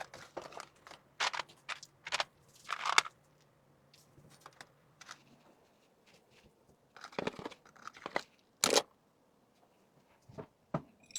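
Packaging being handled: a string of short crinkles and rustles with quiet gaps between, the loudest near the end.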